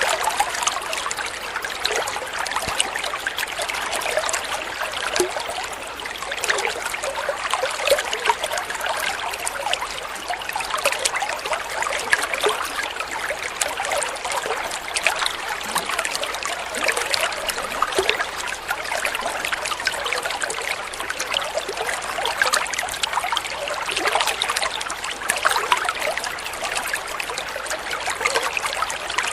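Water flowing and trickling steadily, with many small splashes and bubbling flecks.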